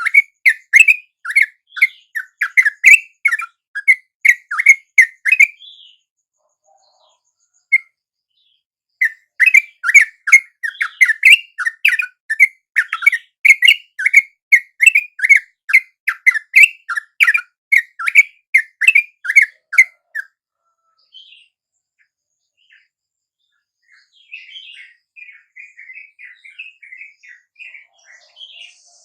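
Yellow-vented bulbul (trucuk) calls: loud, rapid series of chirps, about four a second, in two long bouts, followed near the end by a softer, higher chattering.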